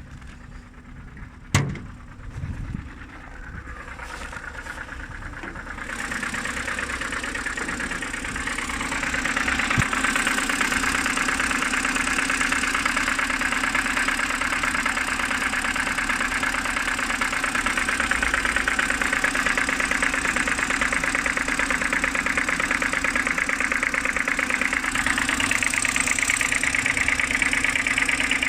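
BMW N52B25 2.5-litre inline-six idling from cold with a rapid, steady knocking, which the owner believes comes from around the oil filter housing. There is a sharp click about a second and a half in, and the engine sound gets louder around six seconds in and again near ten seconds, then holds steady.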